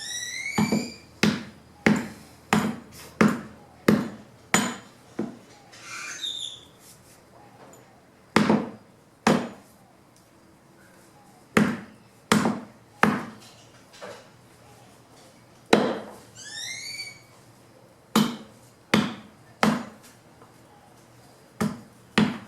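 Fallen branches being chopped into wood chips by hand: sharp chopping strikes in irregular runs, a quick string of about eight in the first five seconds, then groups of two to four with pauses between. A short high chirping call cuts in a few times.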